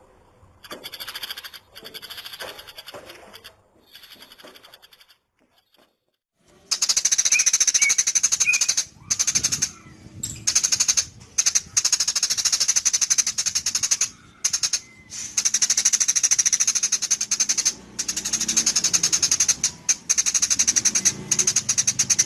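Eurasian tree sparrow chattering in fast, high-pitched rattling bursts, the vigorous non-stop song that bird keepers call 'gacor'. The bursts are quieter for the first few seconds, stop briefly about five seconds in, then come back louder with only short gaps.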